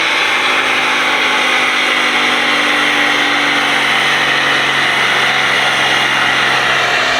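Diesel pickup truck engine running loudly at a steady speed on a chassis dyno, with a steady hiss over it.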